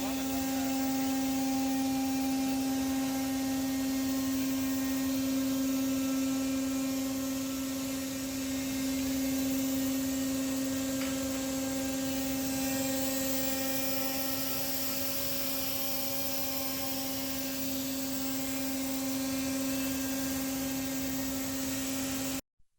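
CNC router machine running with a steady, even hum, its high-speed spindle held at a constant speed. The sound cuts off suddenly near the end.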